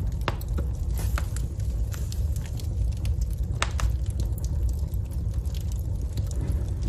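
Wood fire in a fireplace burning with a steady low rumble and irregular sharp crackles and pops from the burning logs.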